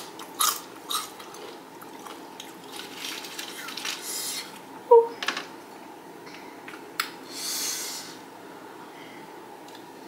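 Crunchy chewing of tortilla chips in the first second or so, a brief squeak about five seconds in, and soft breathy puffs of blowing on a chip dipped in nacho cheese.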